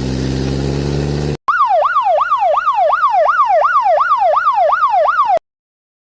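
A steady low vehicle-engine hum, then after a sudden cut a fast up-and-down siren yelp, about three swoops a second, that stops abruptly.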